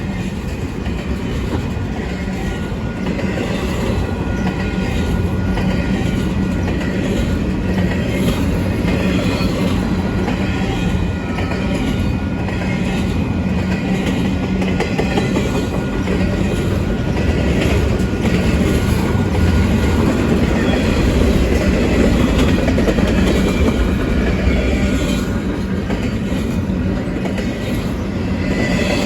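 Union Pacific train rolling past, a loud steady rumble of wheels and cars on the rails.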